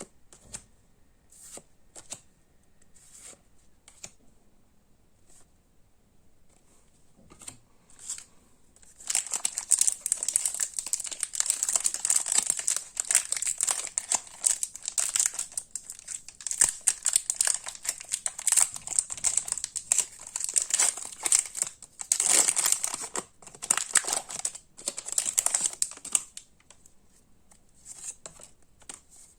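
Pokémon trading card packaging being crinkled and torn open by hand: a few soft handling clicks, then about seventeen seconds of continuous crinkling and tearing, easing back to light handling sounds near the end.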